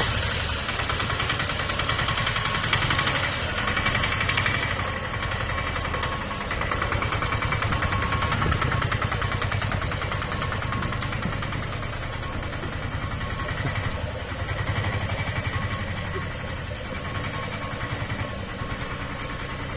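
Small engine of a Piaggio Ape three-wheeler running steadily, a fast, even putter that swells and eases slightly in loudness.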